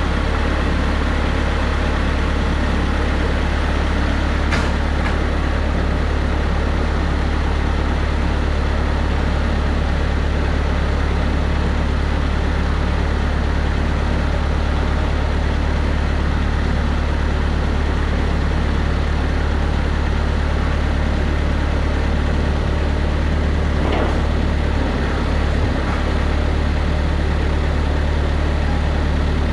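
Bobcat 753 skid-steer's diesel engine idling steadily, with a faint click about four seconds in and another near the end.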